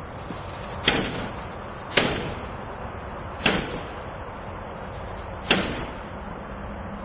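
Four sharp strikes against a burglar-resistant security screen, spaced a second or two apart, each with a short ring-out, as someone tries to break through it.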